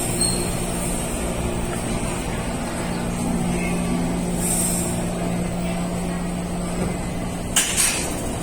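Taipei Metro C321 train's retrofitted IGBT traction equipment humming steadily in a few level tones, and near the end two short, loud hisses of air, typical of the air brakes.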